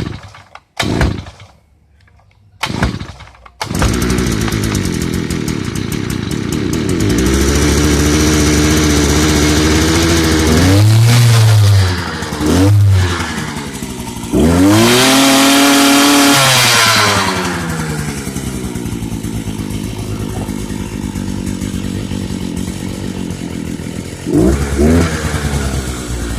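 Thunderbay Y43 post hole digger's small two-stroke engine being started: it fires briefly a few times, then catches about four seconds in and keeps running. The throttle is blipped up and down several times before it settles to a steady idle, with one more short rev near the end.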